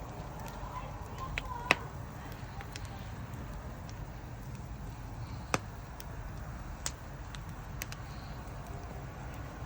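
Campfire burning with a steady low rush and scattered sharp crackles and pops from the burning wood, the loudest a little under two seconds in and another in the middle.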